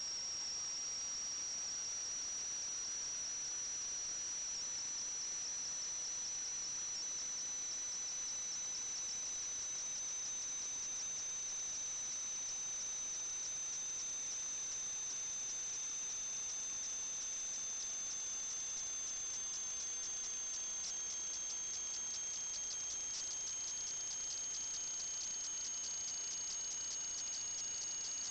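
Steady electronic whine over hiss: two thin high-pitched tones that drift slowly apart over many seconds, one creeping up and the other sliding down, with no other events.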